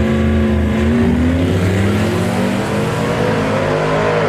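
Racing pickup trucks' engines running hard down a drag strip, the engine note sliding lower over a few seconds.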